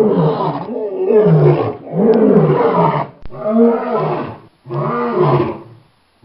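African lion roaring: a series of about five calls, each about a second long, rising and falling in pitch with short pauses between them.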